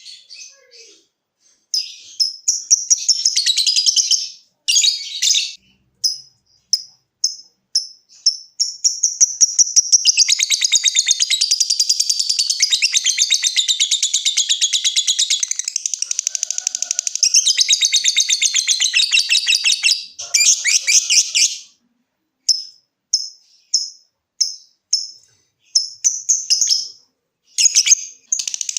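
Lovebird singing: a run of short, sharp separate chirps, then a long rapid chattering trill of about twelve seconds (the "ngekek"), then short chirps again. The calls are high-pitched.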